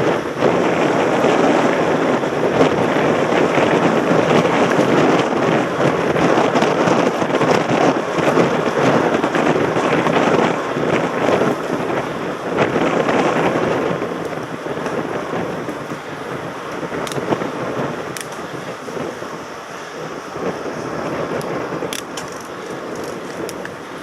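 Wind buffeting a helmet camera's microphone while riding a mountain bike over a rough track, with a constant rattle and crunch from the bike and tyres. The noise eases somewhat after about 14 seconds.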